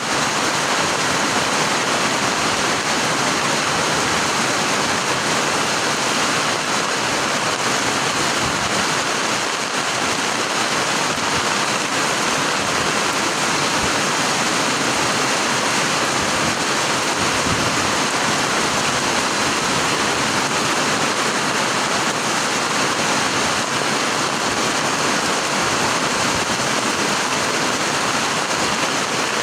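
Heavy rain falling steadily, an even hiss of water that keeps up without a break.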